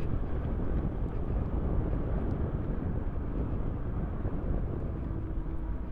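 Wind rushing over the microphone and road noise while riding an Ola S1 Pro electric scooter, with no engine sound. A faint steady whine appears near the end.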